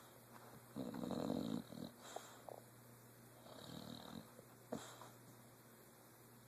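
Dog snoring in its sleep: a loud snore about a second in, a softer one a few seconds later, and a sharp short click just after it.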